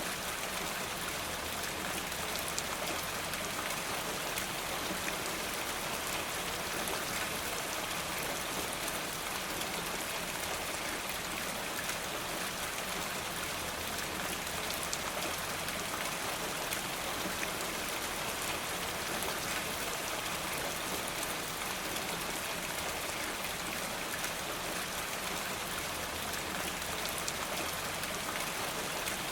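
Steady rain falling: an even hiss with fine, dense drop ticks and no change in level.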